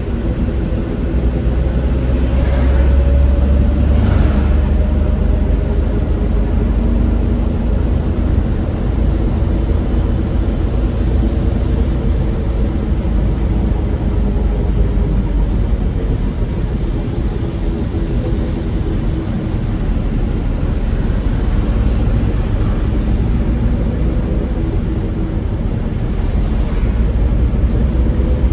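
Car driving on a wet road, heard from inside the cabin: a steady low road rumble and tyre hiss under an engine hum whose pitch slowly drifts and climbs near the end, with a few brief swishes.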